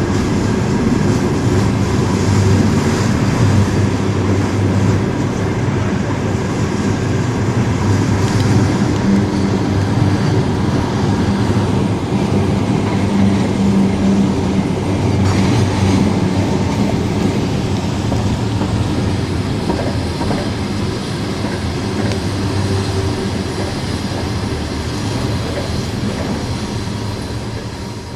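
Train running on rails: a steady rumble of the wheels and cars with the clickety-clack of rail joints, fading away in the last second or two.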